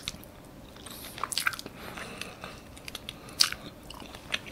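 Close-miked chewing of a mouthful of toast, with wet mouth clicks and lip smacks as fingers are licked.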